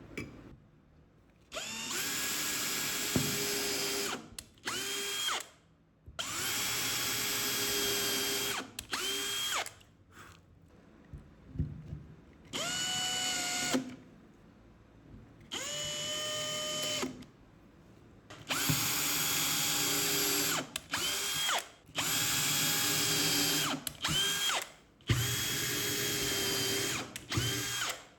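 Power drill running in repeated bursts, about a dozen runs of half a second to a couple of seconds each. The motor whine rises in pitch as each run starts and winds down as it stops, typical of a drill in use on plywood.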